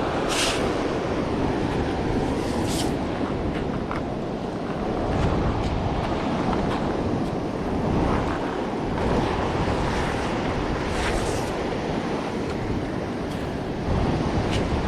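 Ocean surf washing on the beach, a steady rush, with wind buffeting the microphone and a few brief hissing swells.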